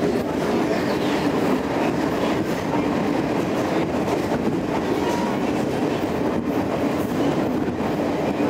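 Moving passenger train carriage heard from inside: a steady running rumble with a faint hum and a few light knocks from the wheels and carriage.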